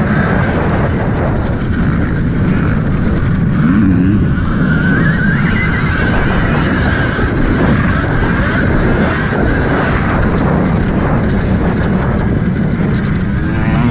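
Heavy wind buffeting and rumble on a helmet-mounted GoPro while riding an Alta Redshift MXR electric dirt bike, with a faint whine from its electric motor rising and falling with speed.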